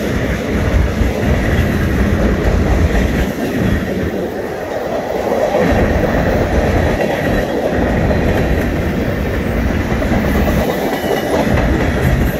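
Freight cars rolling past close by, centerbeam flatcars loaded with lumber and then covered hoppers, their steel wheels making a steady rumble on the rails.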